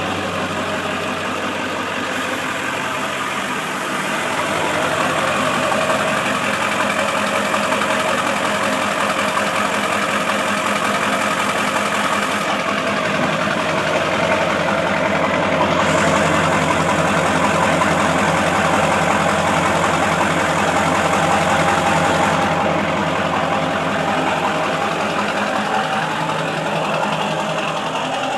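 1997 Ford F-250's 7.3-litre Power Stroke V8 turbo-diesel idling steadily just after a cold start.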